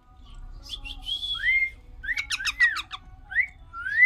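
A parrot whistling: several clear whistled notes that glide up or rise and fall, with a quick run of short chirps in the middle.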